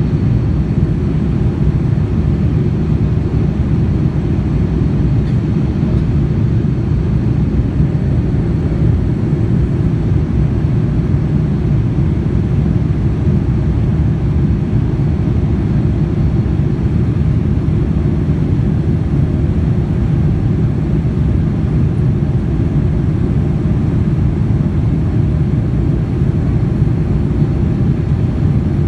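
Steady low roar inside a Boeing 787-9 cabin in flight: engine and airflow noise heard from a passenger seat, unchanging throughout.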